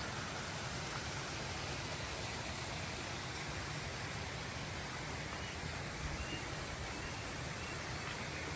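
Steady rushing water, an even hiss with no distinct events, with a few faint short high chirps about halfway through.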